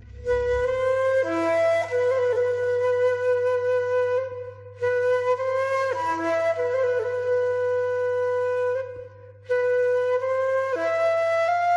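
Background music: a flute playing a slow melody of long held notes in three phrases, with short breaks between them.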